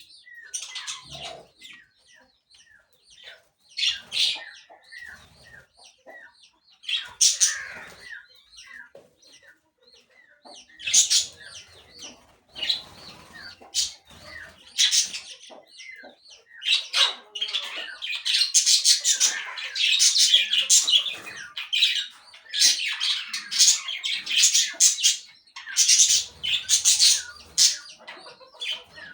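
Caged birds squawking and chirping in short high-pitched calls, scattered at first, then a dense run of overlapping calls through the second half.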